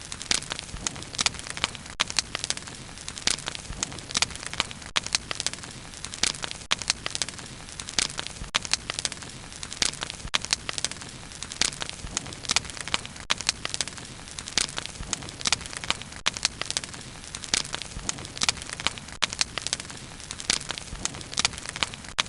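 Wood fire crackling: a dense, irregular run of sharp pops and snaps, several a second, over the fire's steady low hiss.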